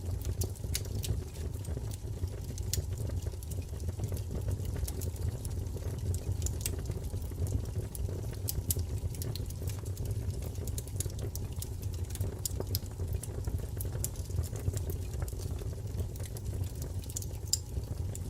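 Wood fire crackling and popping: irregular sharp crackles scattered over a steady low rumble of burning.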